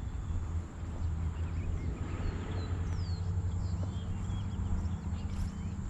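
Footsteps walking over soft, freshly dredged riverbank mud, with birds giving short descending whistled calls and a steady low rumble underneath.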